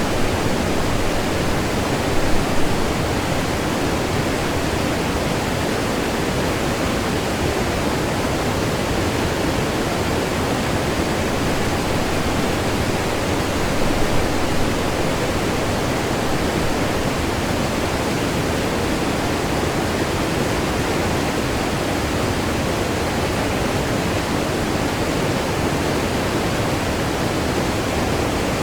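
Waterfall heard from close by: a steady, loud rush of falling water churning over the rocks of a river.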